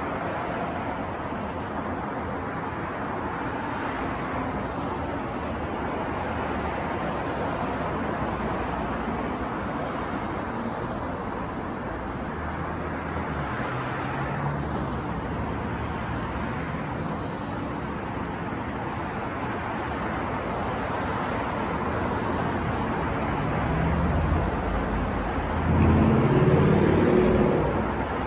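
New York street traffic: a steady wash of passing cars, with engine hum rising and fading. Near the end a louder vehicle engine passes close by.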